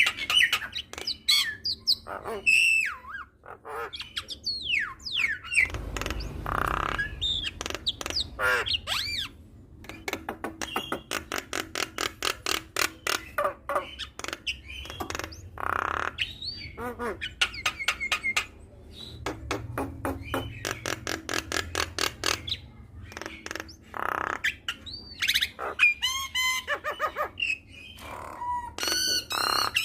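Javan myna (jalak kebo) singing a long, varied song: whistled glides, harsh squawks and fast rattling clicks strung together without pause.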